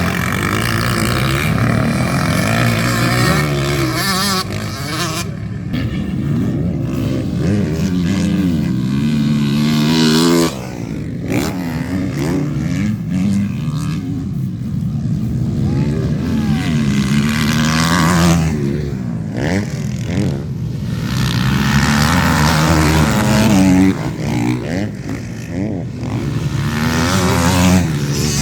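Motocross bikes racing, their engines revving up and down in pitch as riders work the throttle through the track, with several bikes heard at once.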